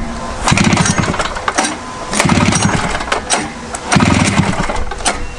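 1973 Rupp 440 two-stroke snowmobile engine being cranked over three times in about one-second bursts, chuffing against its high compression without catching.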